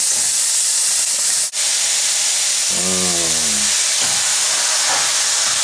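Onions frying in oil in a frying pan, a steady sizzling hiss. After a brief break about a second and a half in, the sizzle goes on with raw ground beef added on top of the onions.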